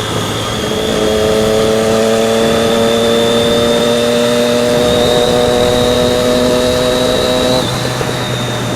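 Triumph Daytona 675R inline-three engine pulling steadily under throttle, its pitch climbing slowly for about seven seconds, then cutting off sharply near the end.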